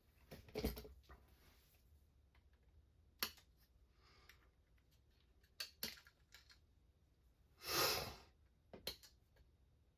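Small RC car parts (wheels and wheel-hex adapters) clicking and tapping as they are handled: a handful of separate clicks spread out, and a short rustle about eight seconds in.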